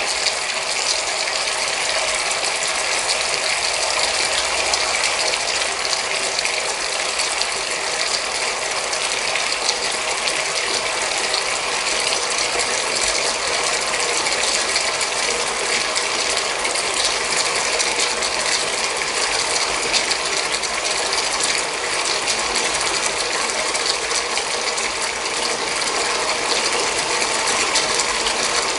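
Bath water making a steady rushing hiss with a dense, fine crackle of tiny clicks throughout.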